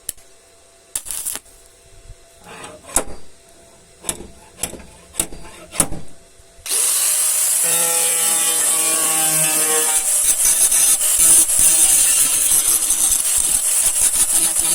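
About six short rubbing or scraping strokes, then a power tool starts suddenly about seven seconds in and runs steadily with a loud, hissing high-pitched noise.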